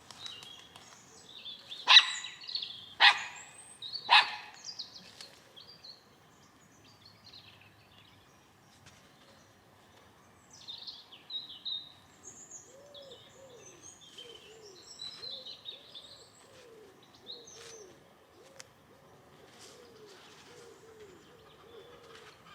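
Small birds chirping and calling on and off, with three loud, short, sharp sounds about two, three and four seconds in, and a faint repeated low arching call in the second half.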